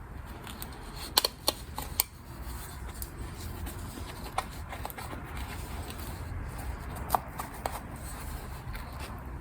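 Hands fitting a new woven wick into a kerosene heater's wick holder: soft rustling with scattered small clicks and taps, the loudest a few about a second in. A low steady hum runs underneath.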